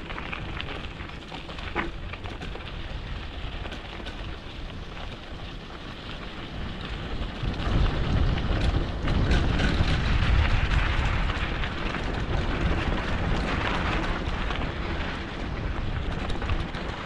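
Wind buffeting the microphone with rough rolling noise as a mountain bike moves over a dirt road, with scattered small ticks. It gets louder about halfway through.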